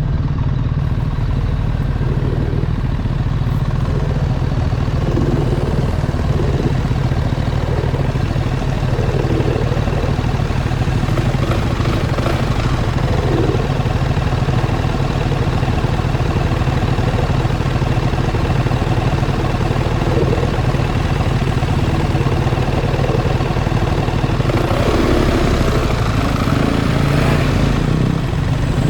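BMW R 1300 GS boxer-twin motorcycle engine running steadily at low revs, without revving. Near the end, a rushing noise rises over it for a few seconds.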